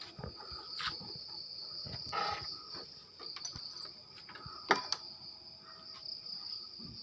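Crickets chirring steadily at a high pitch, with a few sharp knocks, the loudest just before the five-second mark.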